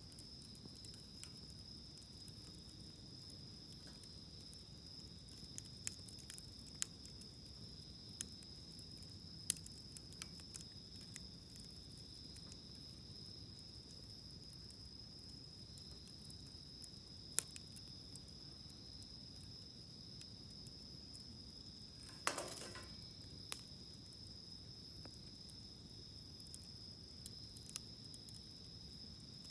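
Wood fire crackling, with scattered sharp pops and one louder crack and brief hiss about 22 seconds in. A steady high-pitched insect drone, like crickets, runs behind it.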